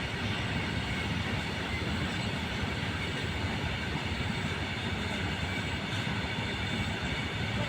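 Train running along the track with a steady rolling rumble of wheels and cars on rails.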